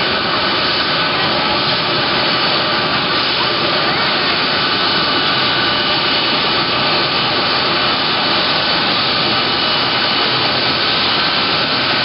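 Boeing C-17 Globemaster III's four turbofan engines running steadily and loudly, a continuous jet noise with high whining tones over it.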